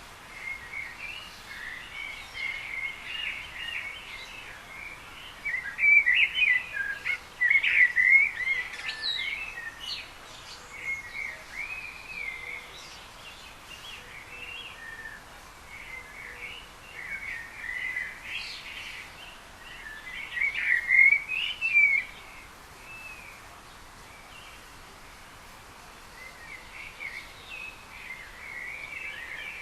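Small songbirds chirping and twittering in bouts of quick high notes over a steady background hiss, loudest about six to nine seconds in and again around twenty seconds in.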